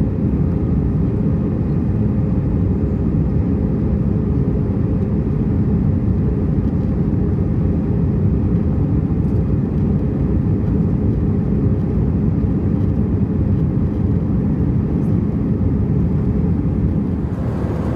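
Steady low rumble of an Airbus A320's engines and airflow heard from inside the passenger cabin, with a faint steady hum over it. Right at the end the noise shifts and takes on more hiss.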